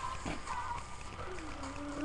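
A person's voice, faint, with a drawn-out vocal sound starting near the end, over a steady low electrical hum.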